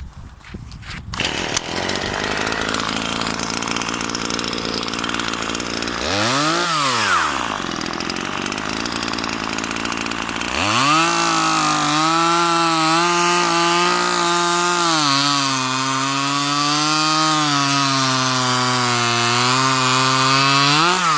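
Stihl MS 150 TC top-handle chainsaw's small two-stroke engine running. It is blipped up and back down once, then from about halfway held at high revs for about ten seconds, its note wavering slightly before falling away at the end.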